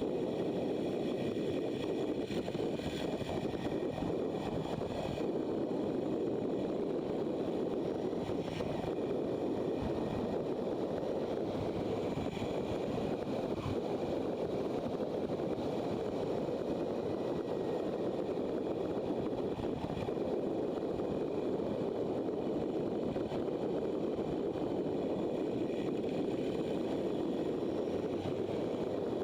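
Motorcycle riding at a steady speed: constant wind rush over the microphone with the engine and road noise running underneath.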